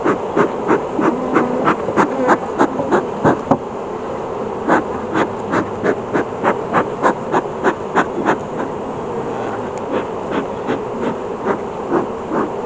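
Honeybees buzzing steadily around the open hive, over runs of short, even puffs, about three a second, from a bee smoker's bellows being pumped.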